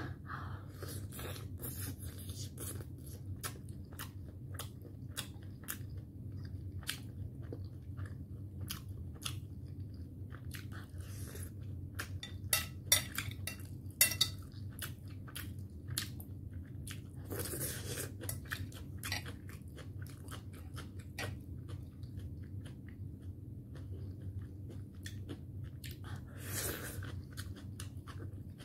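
Close-miked chewing of a steamed momo dumpling dipped in chili chutney: many small wet mouth clicks and smacks, with a few louder sharp clicks about halfway, over a steady low hum.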